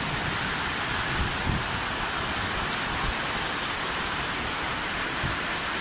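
Heavy rain pouring steadily onto wet paving, an even hiss with no letup.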